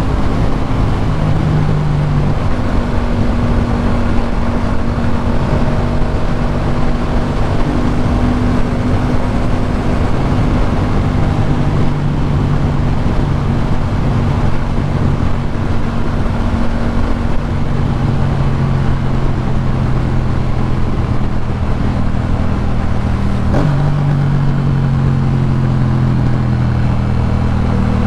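Yamaha MT-07's parallel-twin engine through a Jeskap K4 full aftermarket exhaust, running at a fairly steady throttle on the move over a haze of wind and road noise. The engine note drifts slowly, then steps up sharply about three-quarters of the way through.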